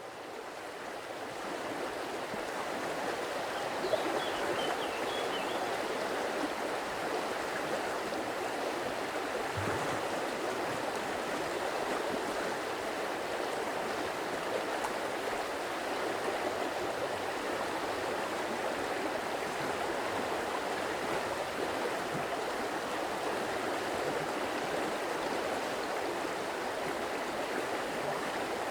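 Stream water flowing and gurgling in a steady, even rush, fading in over the first few seconds.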